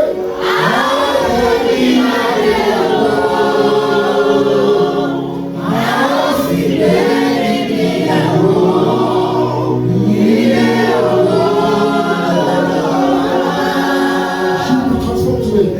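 Choir singing a gospel song in long, held phrases, with short breaks about five and a half and about ten seconds in.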